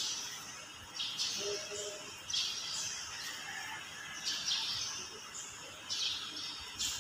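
A bird chirping in short repeated calls, one about every one and a half to two seconds.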